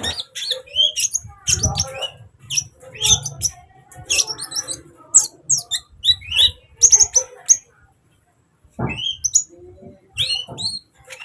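Kolibri ninja sunbird singing: a fast run of short, high chirps and quick up-and-down twitters, broken by a brief pause about eight seconds in. A few low thumps sound under the song.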